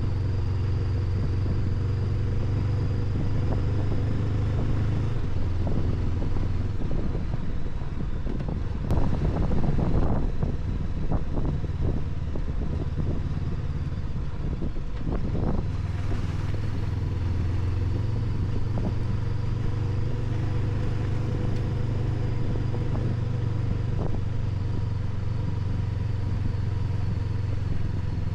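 Honda NX500 parallel-twin motorcycle engine running at a steady pitch under the rider. About a third of the way in, a stretch of knocks and rattles breaks it up for several seconds before the steady engine note returns.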